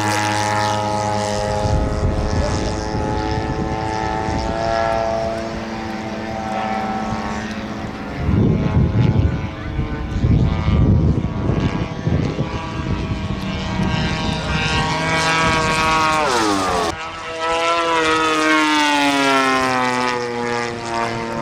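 Radio-controlled model airplanes flying, their small propeller engines droning with a pitch that slides up and down as they pass and change throttle. A rough rush of wind on the microphone breaks in for a few seconds in the middle, and a sharp drop in pitch comes near the end as one plane flies past.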